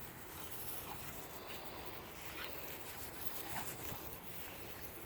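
Faint sounds of dogs at play: a few soft, short dog noises spread across a quiet background.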